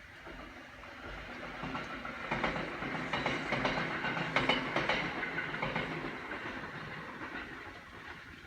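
Kintetsu electric train passing by: its running noise and wheel clatter build up, are loudest about three to five seconds in, then fade away.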